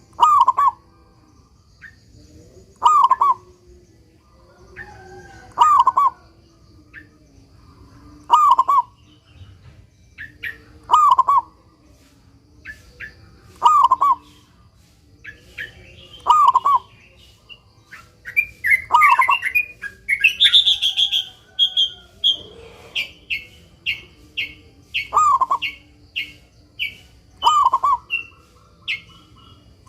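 Zebra dove (perkutut) cooing, its song phrase repeated about every two and a half seconds. Other small birds chirp around it, with a quick run of high chirps in the second half.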